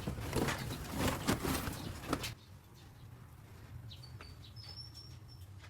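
Birds' wings flapping in a busy flutter that stops abruptly a little over two seconds in, followed by a few faint, short, high chirps.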